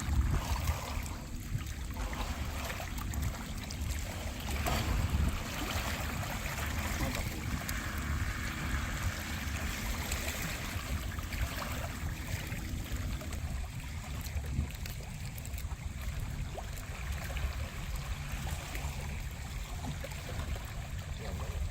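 Sea water sloshing and lapping, with a steady low rumble underneath.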